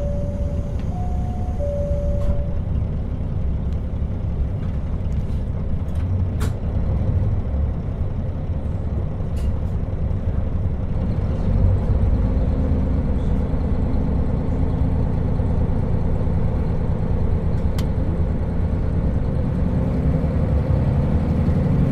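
JR KiHa 40 diesel railcar heard from inside while running: steady low rumble of the engine and wheels on the rails, with a few sharp clicks. A short two-note chime sounds twice at the start, and a steadier engine hum comes in about halfway through.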